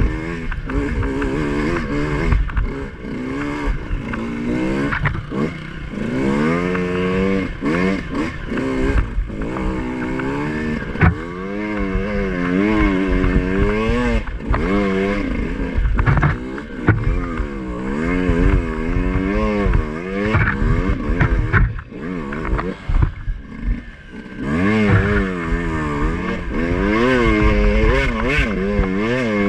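Two-stroke Beta enduro dirt bike engine revving up and down over and over as the throttle is worked on a rough trail climb, with a clack from the bike about a third of the way in. The engine eases off briefly about three quarters of the way through, then picks up again.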